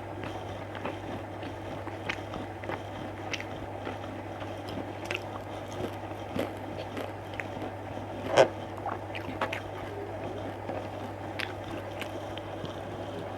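Close-up mouth sounds of a person chewing and biting food, with scattered small clicks and one louder click a little past halfway, over a steady low hum.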